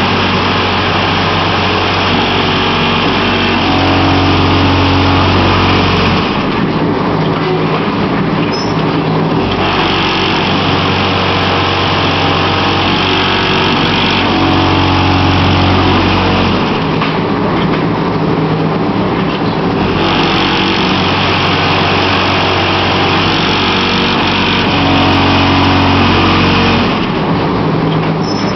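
Columbia Model 22 concrete block machine running through its block-making cycle: a loud steady buzz for about six or seven seconds, then a quieter spell of about three seconds, repeating three times.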